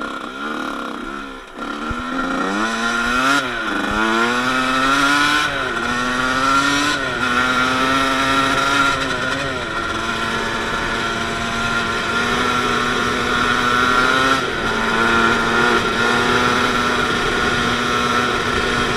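Dirt bike engine accelerating hard through several gears, its pitch climbing and dropping back with each shift over the first ten seconds, then running at a nearly steady speed.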